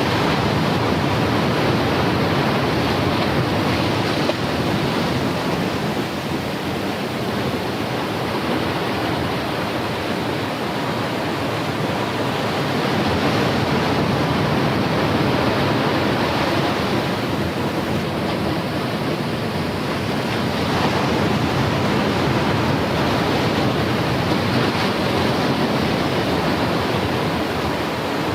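Ocean surf breaking and washing in a continuous roar, swelling and easing every few seconds.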